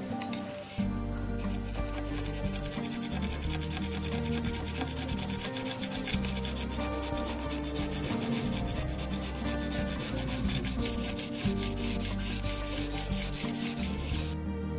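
Quick, even abrasive rubbing strokes, like sanding or filing a repair on a PVCu window frame, over background music with a steady bass line. The rubbing stops shortly before the end.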